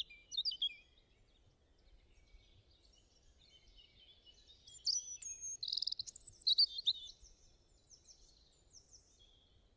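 Small songbirds chirping and singing in a run of short, varied high calls and trills, busiest about five to seven seconds in.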